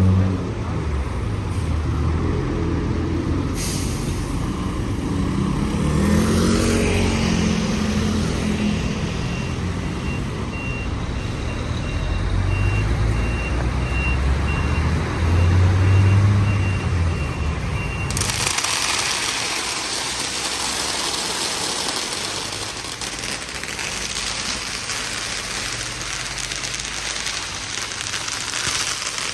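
Scania K410 coach's diesel engine running and manoeuvring, revving up about six seconds in, with an air-brake hiss early on and a series of reversing beeps from about eight to eighteen seconds. The engine sound then gives way to a dense, continuous crackle of firecrackers.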